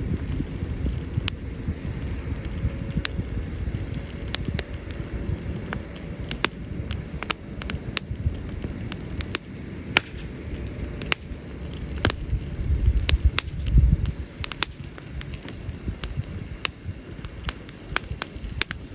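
Wood campfire burning, with irregular sharp crackles and pops over a low rumble that swells briefly about two-thirds of the way in.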